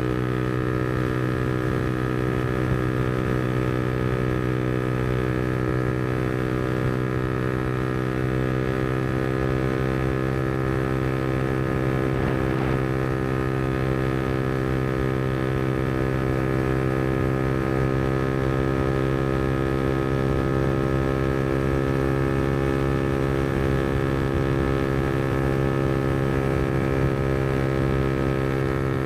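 Yamaha MT-125's single-cylinder 125 cc four-stroke engine running through an aftermarket Black Widow exhaust, held at one steady engine speed with an even, unchanging note.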